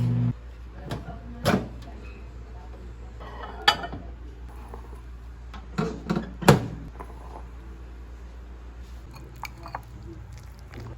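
Scattered knocks and clinks of household objects being handled in a small room, the loudest about six and a half seconds in, just after background music stops.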